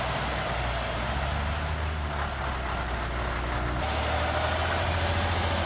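Praga V3S truck's six-cylinder Tatra 912-1 air-cooled diesel running steadily with a low, even note. The sound shifts abruptly about four seconds in.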